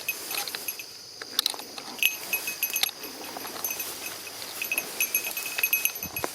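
A small bell on a bird dog's collar jingling in quick, irregular rings as the dog moves.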